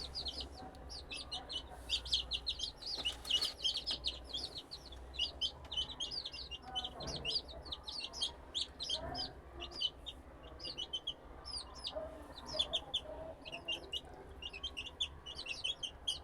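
Several young chicks, about three weeks old, peeping without pause: rapid, overlapping, high-pitched cheeps.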